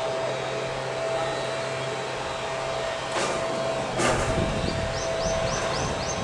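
Strong wind blowing in a steady rush, with gusts buffeting the microphone in a low rumble from about four seconds in. Two sharp knocks come shortly before the rumble, and faint high chirps repeat about three times a second near the end.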